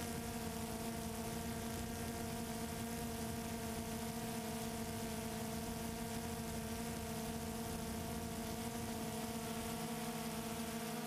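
Multirotor drone's motors and propellers giving a steady, even whirring hum at a constant pitch.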